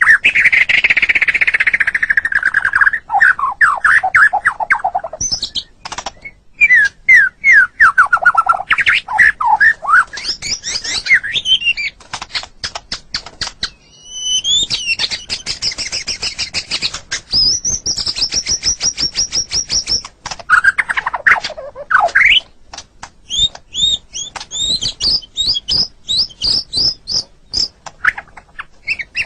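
White-rumped shama (murai batu) singing a long, varied song. Phrases of falling whistled notes alternate with runs of fast repeated notes, sharp chattering and high trills, with brief pauses between them.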